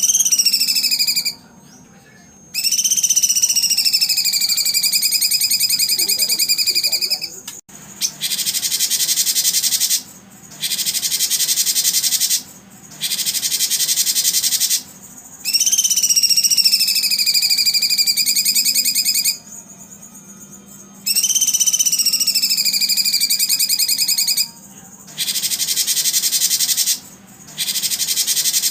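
Long, rapidly pulsed buzzing trills from a songbird therapy recording, each lasting about two to five seconds with short gaps between. Some trills have a clear pitch that dips and then levels off; others are a harsh, hissy buzz. A faint low hum runs underneath.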